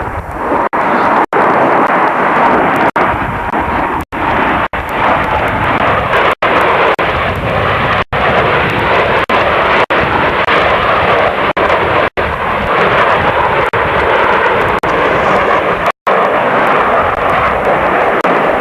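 Loud, steady noise of an aircraft's engines in flight, broken several times by split-second dropouts to silence.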